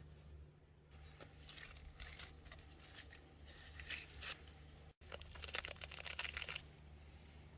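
Dry rustling and crackling in two stretches of quick irregular clicks, the second stretch denser, over a faint low steady hum.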